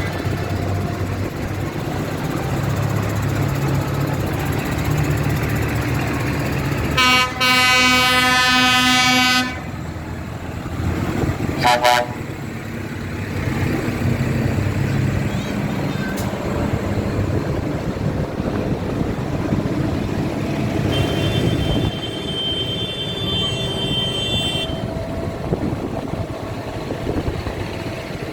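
Vehicle engines rumble steadily while horns sound. There is a loud two-second horn blast about seven seconds in, a short toot near twelve seconds, and a fainter, higher-pitched horn held for several seconds later on.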